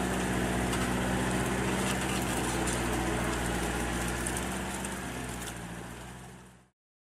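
Fiat 80-90 tractor's diesel engine running steadily under load. The sound fades away near the end and then cuts off.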